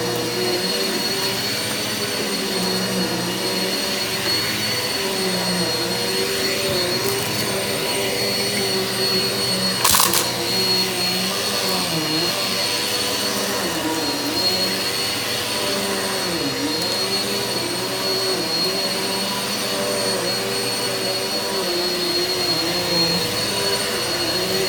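Eureka vacuum cleaner running steadily over carpet, with a steady high whine and its motor pitch dipping briefly now and then. A single sharp click about ten seconds in.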